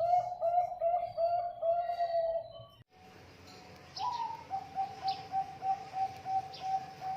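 Zebra dove (perkutut) cooing: a quick run of evenly repeated coo notes, about four a second, that breaks off about three seconds in, then a second run that opens with a rising note. Faint, thin, high chirps from other birds sound behind the second run.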